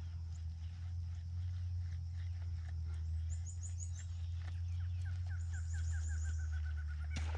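Birds calling from the lakeside woods: a couple of runs of short high chirps, then a series of about eight short, down-slurred notes, over a steady low rumble.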